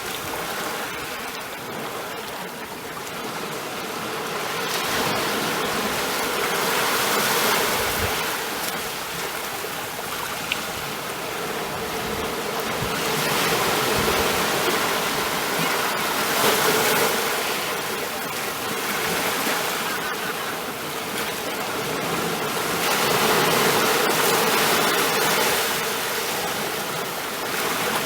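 Ocean waves washing ashore, the surf swelling and receding in slow surges, about four in the span.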